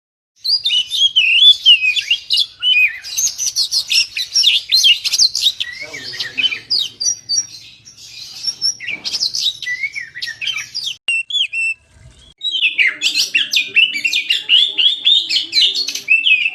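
Oriental magpie-robin (kacer) singing a fast, varied song of whistled glides and chattering notes, breaking off briefly about eleven seconds in before resuming.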